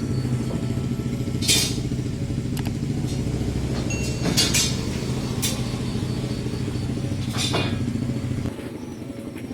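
An electric power tool's motor running steadily, with a few short hissing bursts along the way. Near the end its low running sound drops away sharply.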